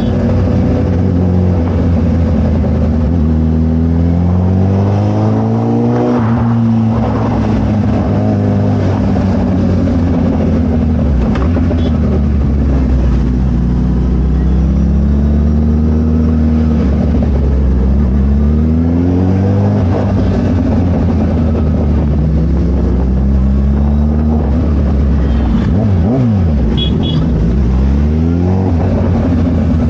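Suzuki Hayabusa inline-four running through a Brock's full carbon exhaust, revving under acceleration while riding. The pitch climbs and drops back sharply several times as it pulls through the gears.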